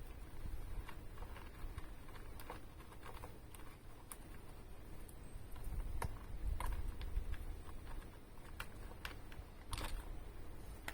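Scattered light clicks and taps, irregular and a few seconds apart, over a low background rumble.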